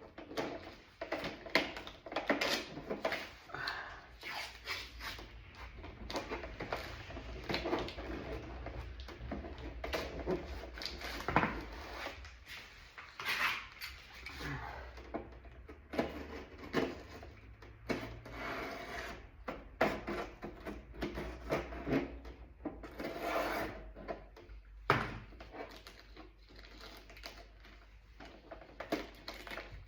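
Irregular rubbing and scraping on a plastic car door panel as it is cleaned and handled, with a few sharper knocks, over a faint steady low hum.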